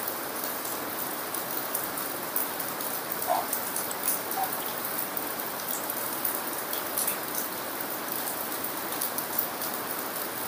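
Heavy rain falling steadily: an even hiss with a constant patter of drops.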